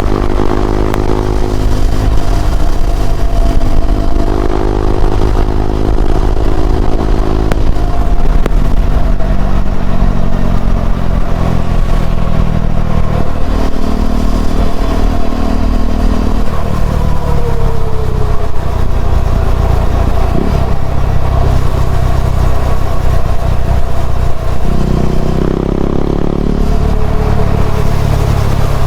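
KTM Duke 390's single-cylinder engine through an Akrapovic slip-on exhaust, riding along with the engine note rising and dropping through several throttle and gear changes.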